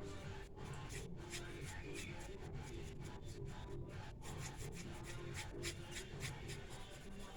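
Quick, scratchy strokes of a drawing or painting tool rubbing across the painting surface, many short strokes in irregular succession.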